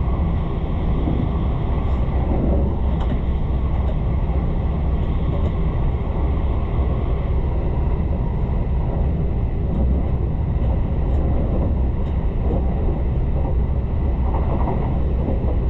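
Running noise inside a Tobu Railway Ryōmō limited express train: a steady low rumble from the wheels and motors, with a few faint ticks.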